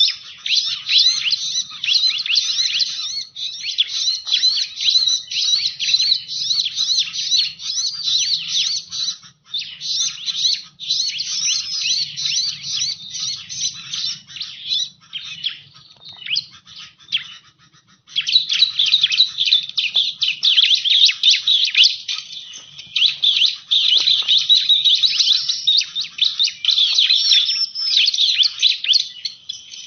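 Bar-winged prinia (ciblek) calling in rapid, dense high chirps and trills. The calling thins out for a few seconds around the middle, then comes back in full.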